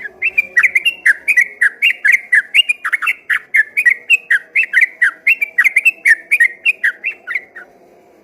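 Yellow-vented bulbul (trucukan) singing a long, rapid run of whistled notes, about four a second, that stops shortly before the end.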